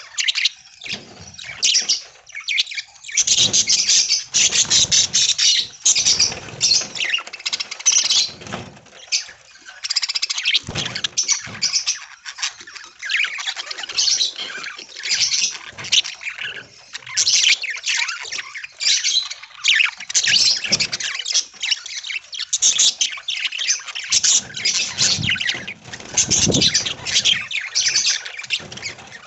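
A flock of budgerigars chirping and chattering without a break, many high-pitched calls overlapping.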